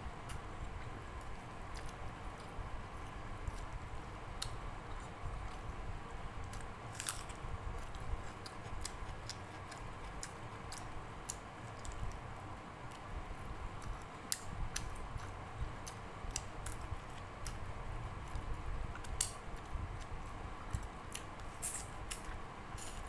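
Close-miked mouth sounds of a person chewing rice mixed with dal and fried fish, eaten by hand, with many small wet clicks and smacks scattered throughout, and the squish of fingers working the rice on a steel plate.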